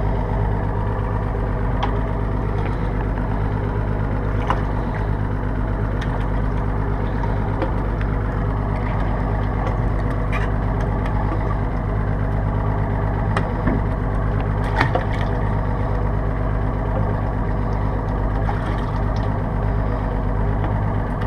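Boat engine idling steadily, a constant low drone, with a few light clicks or knocks here and there.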